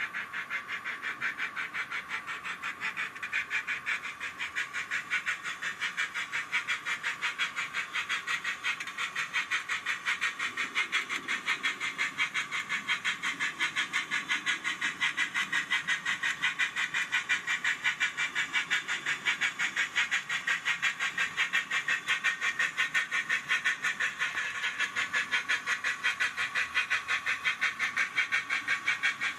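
Digital sound decoder in an Accurascale J68 0-6-0T model steam tank engine playing a steady, quick chuffing exhaust beat through its small on-board speaker, thin and without bass, as the locomotive runs in on the layout.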